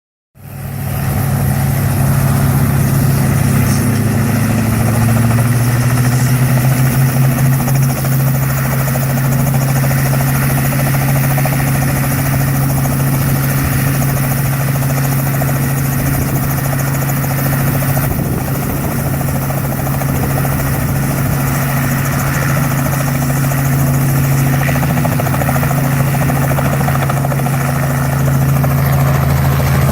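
Robinson R44 helicopter running, its six-cylinder Lycoming piston engine and rotor making a loud, steady low drone. The sound rises in over the first half-second and then holds level.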